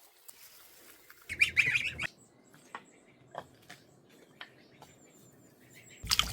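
A bird's loud squawking call lasting under a second, about a second in, followed by faint high chirps and scattered light ticks.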